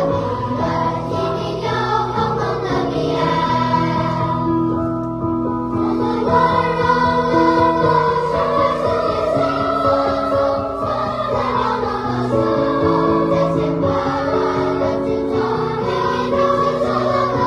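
Children's choir singing a slow song in parts, with sustained notes.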